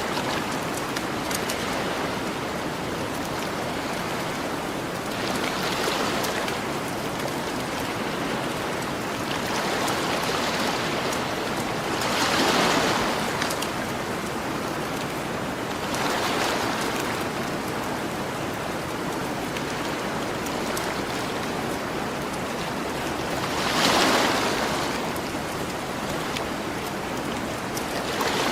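Ocean waves washing onto a beach as a steady hiss of surf that swells every few seconds, loudest twice, with light crackles of a campfire.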